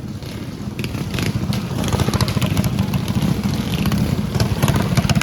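Small mini bike engines running hard during a race, getting louder about two seconds in.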